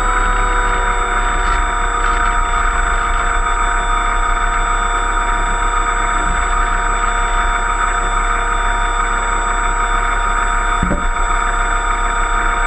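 Electric motor and propeller of an RC model Cessna 182 floatplane running steadily in flight: an even whine of several steady tones over a rushing hiss. There is a brief knock near the end.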